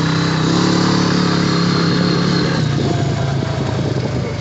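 Honda Rancher ATV's single-cylinder four-stroke engine running steadily under throttle, then easing off about two-thirds of the way through.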